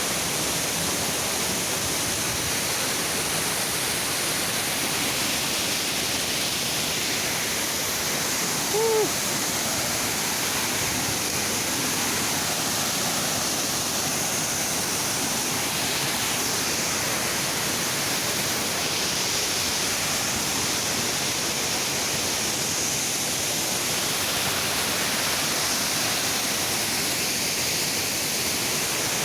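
Waterfall: a steady, even rush of falling water. About nine seconds in, one brief pitched call sounds over it.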